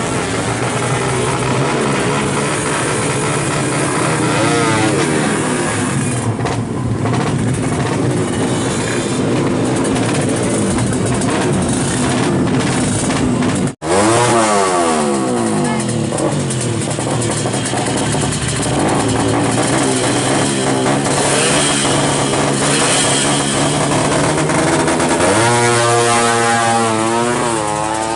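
Two-stroke motorcycle engines with racing ignition revving hard, the pitch sweeping up and down repeatedly. The sound breaks off for an instant about halfway through, and another engine takes over.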